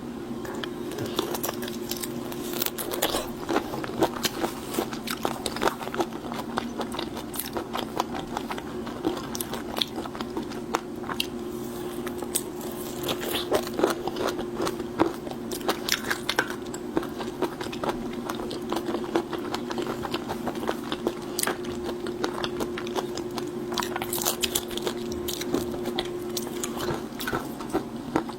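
Close-miked mukbang eating of seafood: steady biting and chewing with irregular crunches and clicks, over a faint steady hum that stops near the end.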